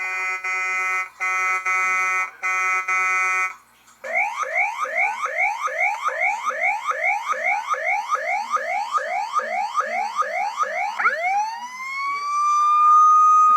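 Electronic siren and horn sound effects from the Hess 2023 toy police truck: three short steady horn blasts, then a fast yelping siren of rising sweeps about three a second, then it switches to a single wail that climbs and holds high.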